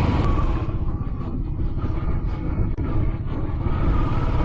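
Royal Enfield Classic 500's single-cylinder engine running under way, a steady low beat with a haze of ride noise over it. The hiss thins out for a couple of seconds in the middle.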